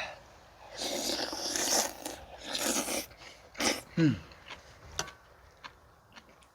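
A person eating soup with rice: two noisy slurps from the spoon, then chewing with small mouth clicks and a short falling "mm" of satisfaction about four seconds in.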